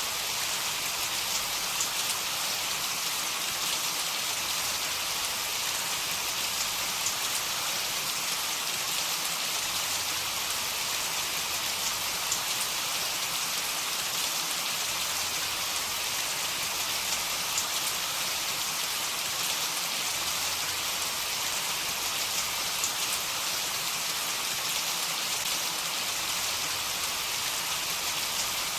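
Heavy rain falling steadily: a dense, even hiss with faint drop ticks throughout.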